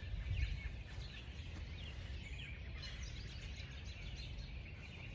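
Chorus of several wild songbirds chirping and singing at once, many short quick chirps and trills, over a low steady rumble of background noise.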